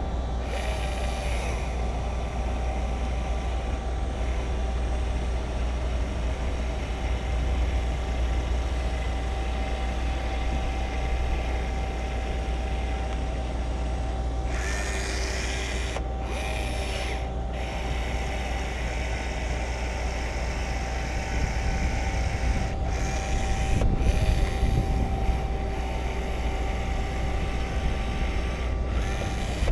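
Steady low mechanical hum with a faint constant tone over it. A few short bursts of hissing noise come about halfway through and again near the end.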